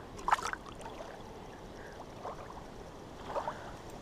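Faint water murmuring, with a few brief small sounds, the loudest about a third of a second in.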